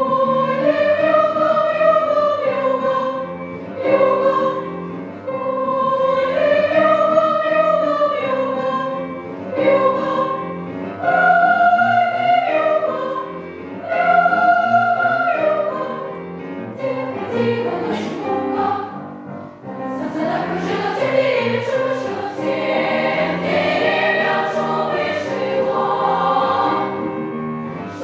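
Choir singing a melody in long held phrases that rise and fall. About two-thirds of the way in, the singing turns fuller and busier.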